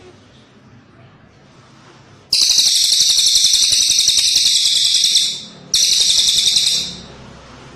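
Cililin bird singing: two loud, high, buzzing trills with a short break between them, the first about three seconds long and the second about one second.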